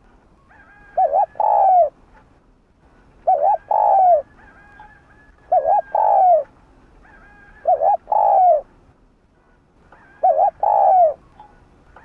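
Spotted dove cooing: five repeated calls about two seconds apart, each two short quick notes followed by a longer falling coo.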